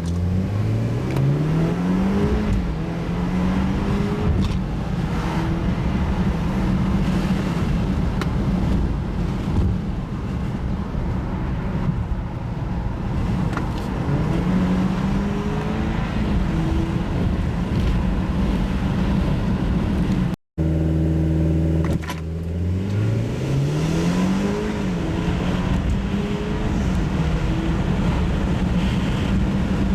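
The 2013 BMW 528i xDrive's turbocharged four-cylinder engine pulls hard from a standstill, its pitch climbing and then falling back at each upshift. After a short cut about twenty seconds in, a second run starts again from low revs.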